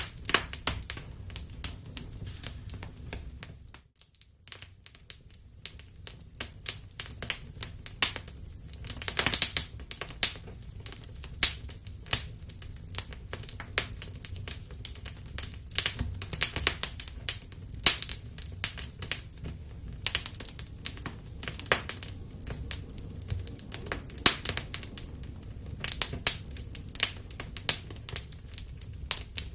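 Fire burning in a fireplace, crackling with many irregular sharp snaps and pops over a low steady rumble. The sound dips out briefly about four seconds in.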